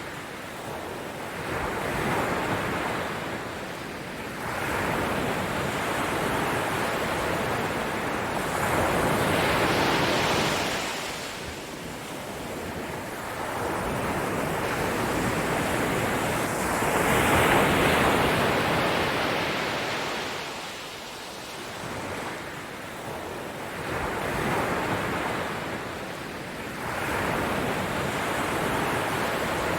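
Ocean waves washing in: a rushing surf noise that swells up and falls back every few seconds, with no music over it.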